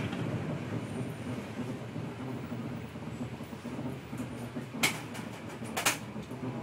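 Typhoon wind blowing hard, a steady rumbling rush, with two short loud bursts about five and six seconds in.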